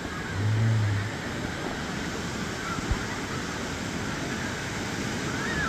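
Steady rush of a waterfall's falling water, with a brief low hum lasting under a second near the start.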